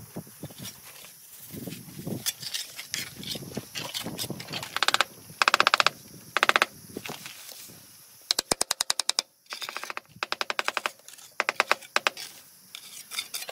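Rapid, evenly spaced mechanical strikes in short bursts of about a second, several times over, with louder bursts of rattling noise near the middle.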